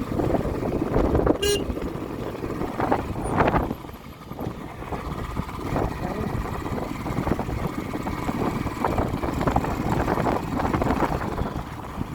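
A vehicle driving on a rough track, a steady rumble of engine and road noise with bumps, and a short beep about a second and a half in.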